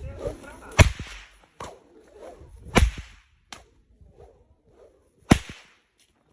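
Three loud, sharp cracks a couple of seconds apart, each with a brief swishing tail, like a whip or rope being snapped to drive a stubborn animal.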